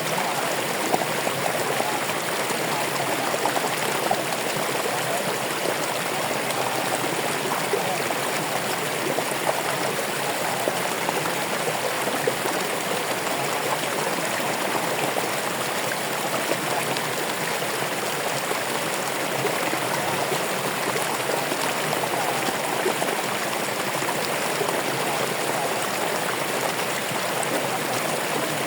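Running water of a stream flowing steadily, an even rushing sound with no breaks or pauses.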